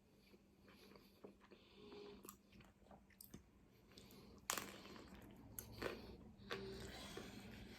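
Faint close-up chewing and biting of food, with small crunches and mouth clicks; one sharper click about four and a half seconds in.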